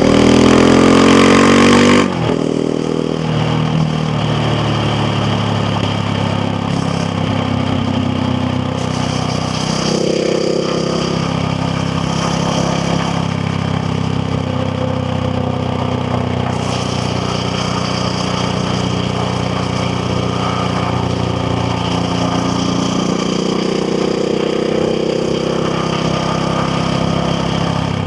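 KTM Duke 690R's single-cylinder engine accelerating hard with a rising note for about two seconds, then dropping off abruptly as the throttle closes. It then runs at a steady pace under the rush of wind, with slight rises in pitch around a third of the way in and again near the end.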